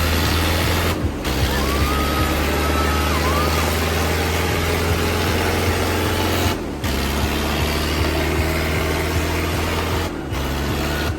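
Diesel farm tractor engine running steadily, pulling in a tractor tug-of-war. A brief high whistle-like tone sounds over it about a second and a half in.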